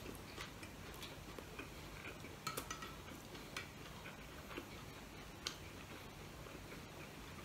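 Faint eating sounds: quiet chewing of a fried spring roll (lumpia) with scattered small clicks and taps, a short cluster about two and a half seconds in and a sharper single click about five and a half seconds in.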